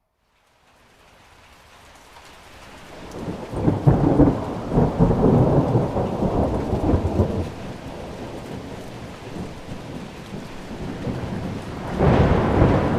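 Rain falling with a long roll of thunder: after a brief silent gap at the start, the rumble builds over a few seconds, is loudest for about three seconds, then eases back to steady rain. A second surge of thunder begins near the end.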